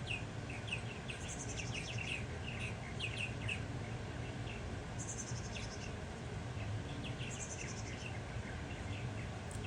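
A fledgling chickadee begging for food, calling over and over in short high chirps. A high buzzy trill sounds three times.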